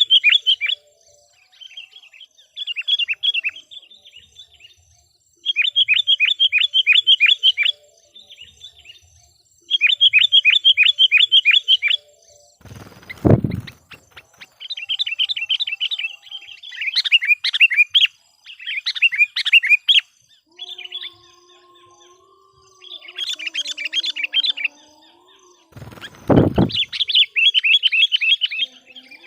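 Sooty-headed bulbul (kutilang) decoy bird calling. It gives bursts of rapid, high chattering notes, each about two seconds long, repeated with short pauses. Two dull thumps come about a third and most of the way through.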